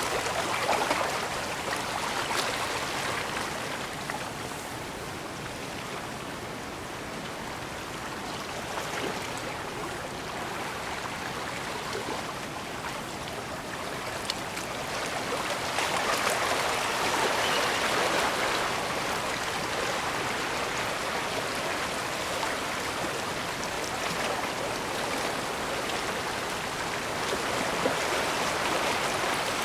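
Gentle bay water washing and lapping at the shore: a steady rush that swells louder about a second in, again about halfway through, and once more near the end.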